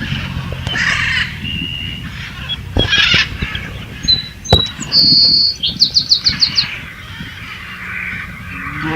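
Bird chirps and calls with scattered clicks and knocks. About halfway through, a short steady high tone is followed by a quick run of about six high chirps.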